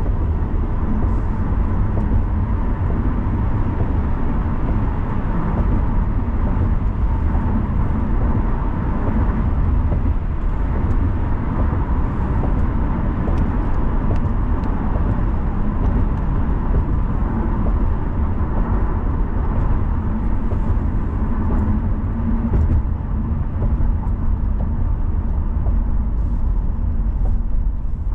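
Steady road noise of a car being driven: a continuous deep rumble with tyre hiss on the pavement.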